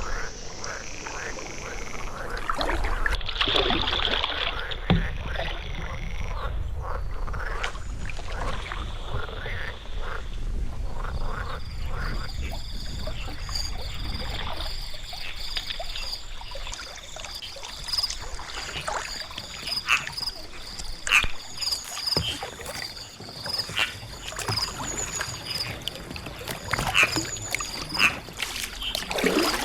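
Kayak paddling: short splashes and drips of the paddle blades in water, some of them sharper knocks. From about a third of the way in, a rapid, evenly repeating high-pitched call runs behind the paddling.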